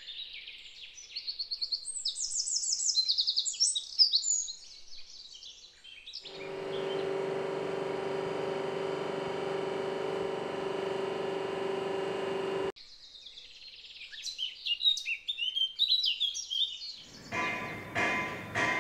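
Birds singing in high chirps and trills. About six seconds in, a steady droning hum with a strong low note starts abruptly, runs for about six seconds and cuts off sharply, and the birdsong carries on after it.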